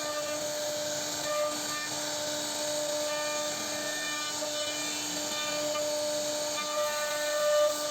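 CNC router spindle running at steady speed as its bit cuts into a wooden board, a constant high whine over the rasp of the cut.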